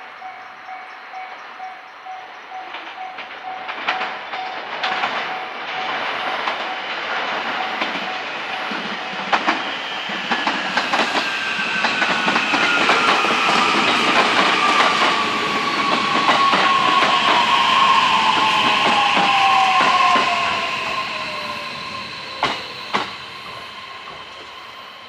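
JR E131 series electric train's hybrid SiC-IGBT VVVF inverter whining with a pitch that falls steadily as the train brakes to a stop, over clattering wheels on rail joints. Two sharp knocks come near the end as it slows to a halt.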